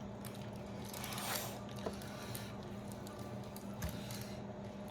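Wet squishing and small clicks of a grilled whole chicken being pulled apart by hand and eaten, with a brief louder rustle about a second and a half in. A steady low hum runs underneath.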